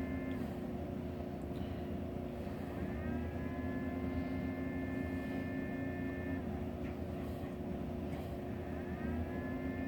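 Salton portable ice maker running with a steady electrical hum. A higher motor whine winds up about three seconds in, holds steady, stops around six and a half seconds, and winds up again near the end. No water is drawn, which the owner takes as a sign that the water pump is not running.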